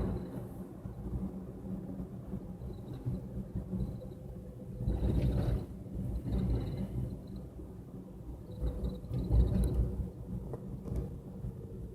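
Low road and engine rumble of a moving car, picked up by a dashboard camera inside the cabin. It swells louder about five seconds in and again around nine seconds.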